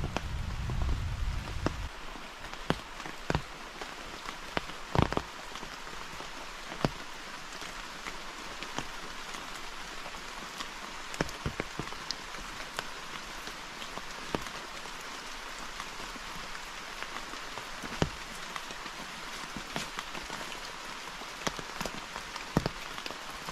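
Steady forest rain, a continuous hiss with scattered louder drops ticking sharply at irregular moments. A low rumble underneath fades out about two seconds in.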